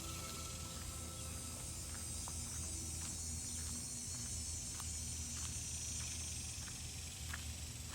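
Quiet suburban outdoor ambience: a steady low hum under a steady high insect-like hiss, with faint scattered ticks.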